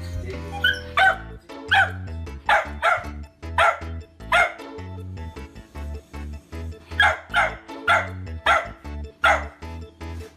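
Miniature dachshund barking repeatedly, about a dozen short barks with a gap in the middle, over background music.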